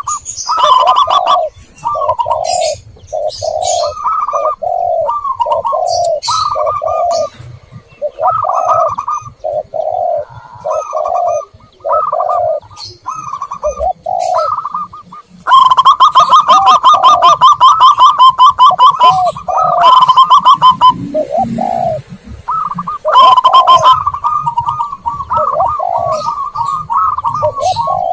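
Lure recording of zebra doves and spotted doves cooing over and over in short repeated phrases, with higher chirps from small birds mixed in. About halfway through, the coos turn into a fast rolling run of rapid notes lasting several seconds, then pause briefly before the phrases resume.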